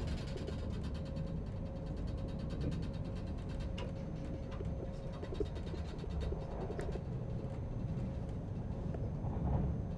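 Interior ride noise of a passenger train in motion: a steady low rumble with a faint steady hum and a few light clicks, one sharper about five and a half seconds in.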